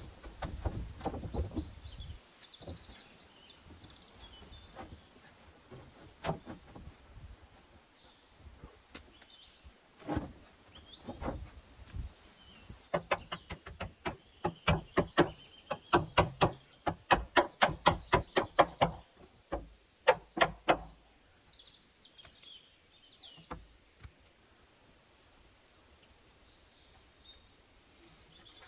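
A fast, regular run of sharp knocks, about two to three a second, lasting roughly eight seconds from about midway, with a few single knocks before it. Birds chirp faintly in the background.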